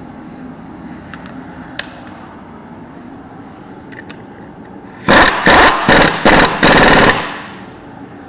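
Impact wrench hammering in five short, loud bursts over about two seconds, starting about five seconds in, as it backs off a bolt. A few faint tool clicks come before it.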